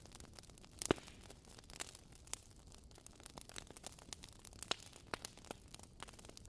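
Wood fire crackling: irregular pops and snaps over a faint steady hiss, the sharpest pop about a second in.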